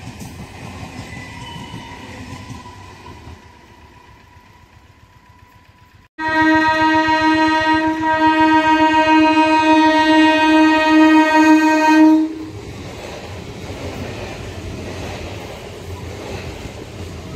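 Indian EMU suburban trains: the rumble of one passing train fades away, then the sound breaks off sharply and the approaching EMU sounds a loud, steady horn blast of about six seconds. After the horn stops, its coaches rumble past close by.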